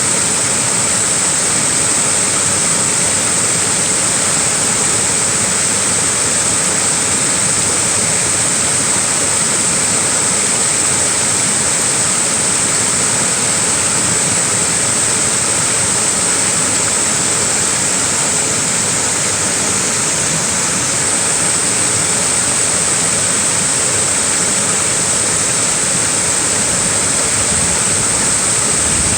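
Small waterfall: a steady, unbroken rush of falling water, with a bright hiss on top.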